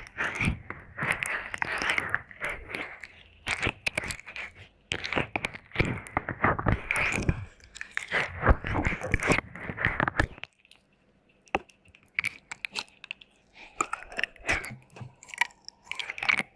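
Close-up wet mouth sounds: clusters of sharp smacking clicks and licking, with a short pause about two thirds of the way through before they pick up again.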